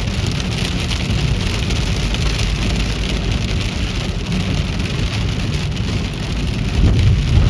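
Heavy rain pelting a car, heard from inside, over a steady low rumble that swells briefly near the end.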